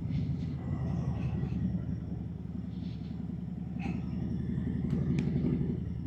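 Harley-Davidson Road Glide's V-twin engine running while riding, a steady low pulsing beat from the exhaust that swells slightly about five seconds in and then eases off near the end.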